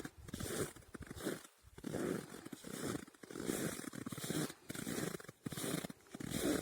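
Footsteps creaking and squeaking in snow at a steady walking pace, about three steps every two seconds.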